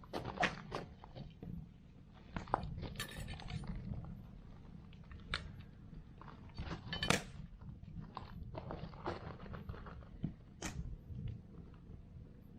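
Wood fire crackling, with irregular sharp pops and snaps, a few loud ones about half a second in and near the middle, over a steady low rumble.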